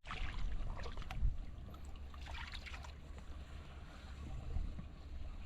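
Wind rumbling on the microphone, with faint splashes and sloshing of shallow water now and then.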